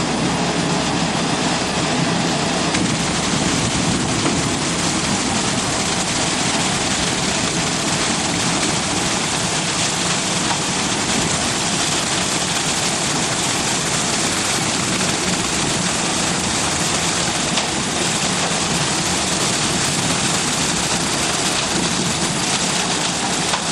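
Self-loading concrete mixer truck running steadily, a continuous rushing hiss of concrete discharging over the engine.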